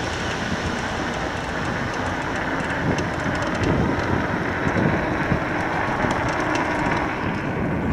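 Steady rushing noise of an electric bike being ridden along a trail: wind on the microphone and tyres rolling, with scattered small ticks.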